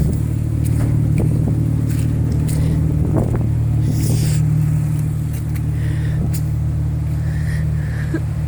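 A motor vehicle's engine running with a steady low hum, with a few light knocks and rattles over it.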